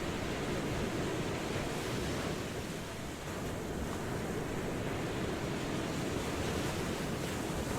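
Ocean waves washing on the shore in a steady, continuous rush, easing off slightly about three seconds in before swelling again.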